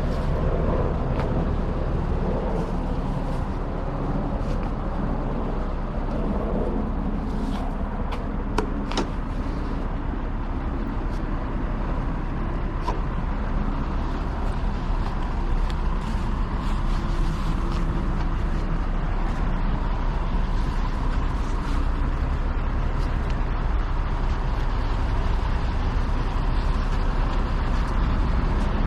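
Tow truck running on the road: a steady low engine and road rumble, with a few light clicks about eight or nine seconds in.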